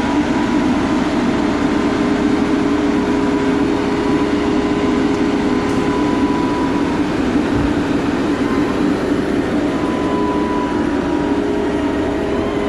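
Heavy truck driving at a steady speed: steady engine and road noise with a faint steady whine above it.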